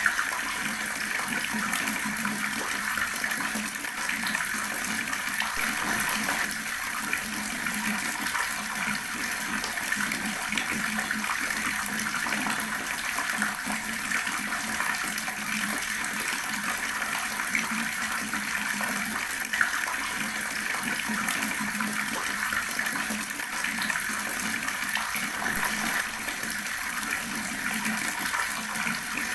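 Water running steadily from a tap and splashing below it, with a few small drip-like clicks, one sharper one about twenty seconds in.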